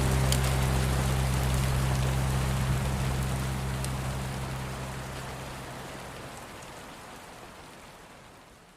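Steady rain hiss with a few drop ticks, fading out gradually to near silence. Under it, a low sustained note from the song, muffled as if heard from the next room, dies away about two-thirds of the way through.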